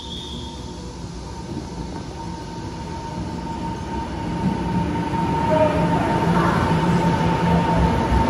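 A train running and drawing closer, its rumble growing steadily louder, with a thin steady tone held underneath.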